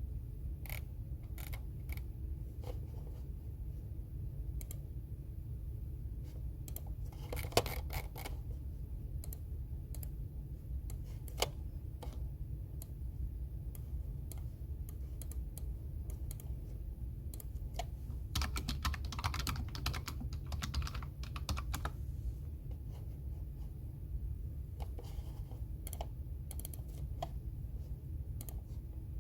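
Computer keyboard typing: scattered key clicks coming in short bursts, with a steady low hum underneath.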